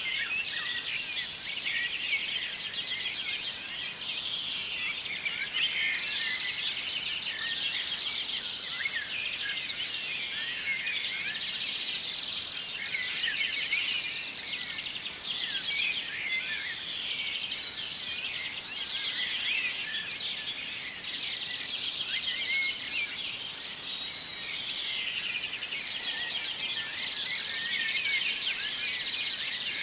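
Dawn chorus: many songbirds singing at once, dense overlapping chirps and trills with no single voice standing out.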